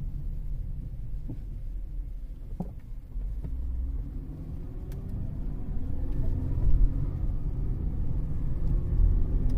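Road and drivetrain rumble inside the cabin of a 2013 Cadillac CTS 3.0 V6 on the move, with the engine note climbing from about halfway through as the car speeds up. A few faint clicks come early on.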